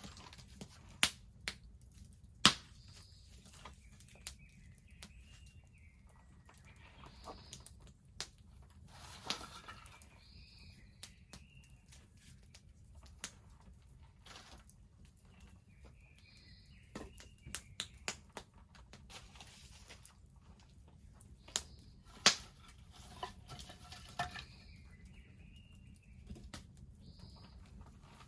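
Wood bonfire crackling, with scattered small clicks and a few sharp pops. A bird sings a short phrase, repeated about every six or seven seconds.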